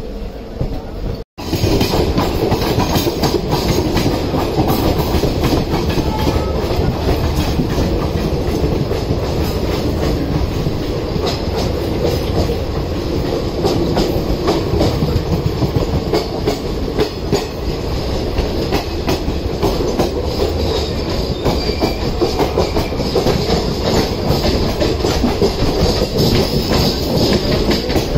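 Passenger train running along the track, its wheels clattering rhythmically over rail joints over a steady rumble.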